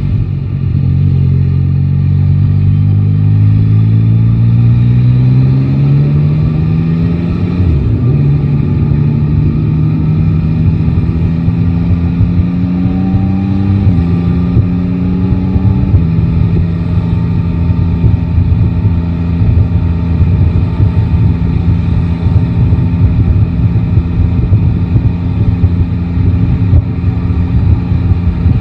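Yamaha Tracer 9 GT's three-cylinder engine pulling hard with rising pitch, then dropping at an upshift about a quarter of the way in. It pulls again, changes twice more around the middle, and then runs at a steady speed for the rest, over a constant low rumble of wind and road.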